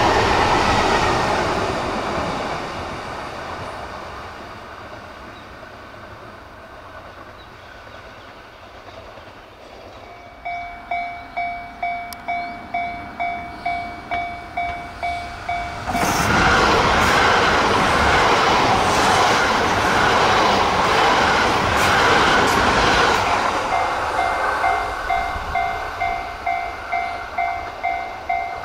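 An E3 series Tsubasa mini-shinkansen rushes past and fades away over the first several seconds. About ten seconds in, a level crossing warning bell starts ringing at about two strikes a second. Around sixteen seconds another E3 series train passes at about 75 km/h, drowning the bell for some seven seconds, and the bell keeps ringing after it has gone by.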